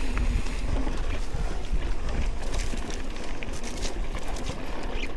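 Wind rumbling on a moving microphone, with scattered light ticks and rattles.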